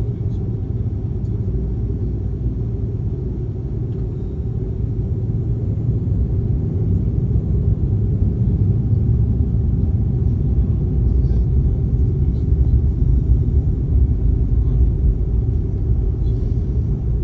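Airliner cabin noise as the plane taxis before takeoff: a steady low rumble of the jet engines, growing a little louder about six seconds in.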